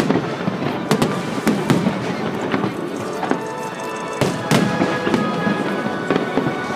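Fireworks display: aerial shells bursting in a rapid, irregular series of sharp bangs, several close together, over a continuous crackle.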